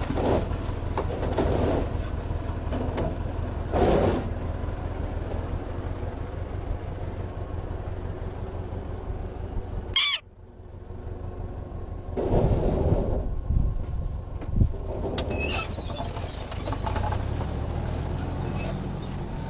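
A vehicle engine running steadily, with a bird calling several times over it. The sound drops out briefly about halfway.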